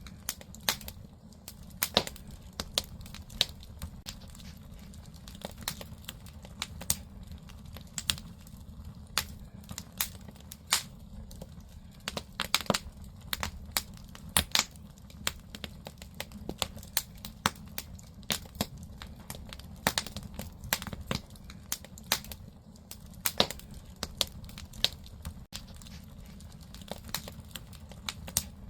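Firewood burning in an agungi, the wood-fired firebox of a traditional Korean house: irregular sharp crackles and pops over a low, steady rumble of the fire.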